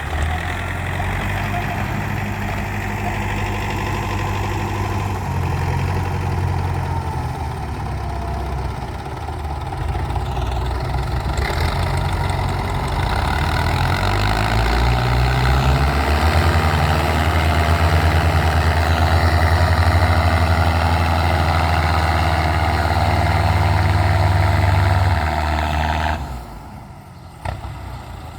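Tractor diesel engine running, its note shifting and growing louder about halfway through, then falling away abruptly near the end.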